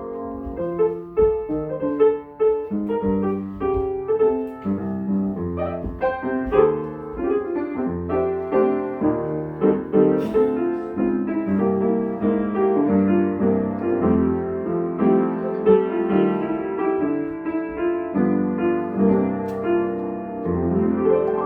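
Solo piano music: a piano playing a flowing melody over chords, with notes struck in quick succession throughout.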